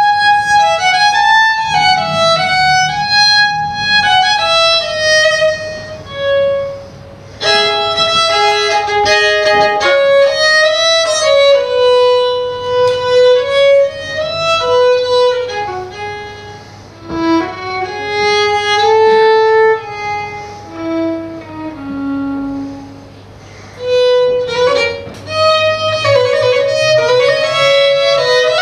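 Solo violin playing a melodic line in phrases, with short breaks between them.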